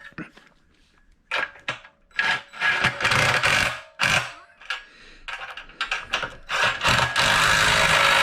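Power drill-driver running in two spells, about two seconds in and again near the end, tightening the screws that hold a bracket to the router table's frame rails, with a few handling clicks before the first run.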